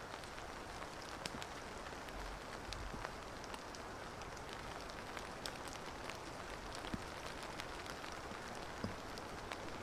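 Rain and wet snow falling on a tarp shelter: a steady hiss with many scattered sharp drop taps.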